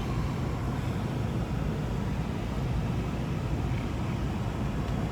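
Steady low rumble and hiss of a vehicle cabin in motion, unchanging throughout.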